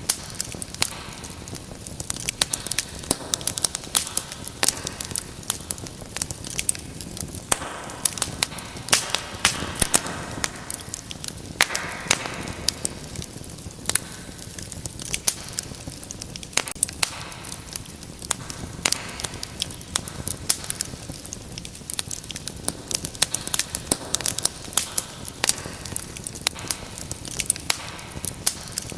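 Wood fire crackling, with frequent sharp pops and snaps over a soft steady hiss.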